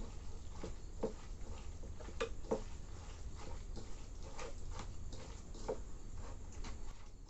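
Chuda (flattened rice) soaked in milk being mixed in a bowl: irregular light clicks and taps, a few a second.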